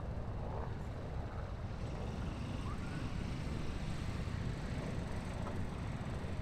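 Steady low harbor rumble of distant boat engines and city traffic carried across the water, with a faint short chirp about halfway through.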